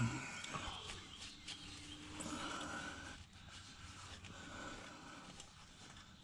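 A rag wiping spilled engine oil off the car's body: soft scrubbing strokes in stretches of about a second, with a few light knocks.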